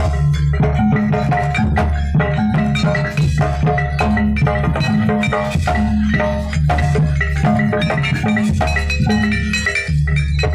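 Jaranan gamelan music: pitched metal percussion playing repeating patterns over drums, in a steady, dense rhythm.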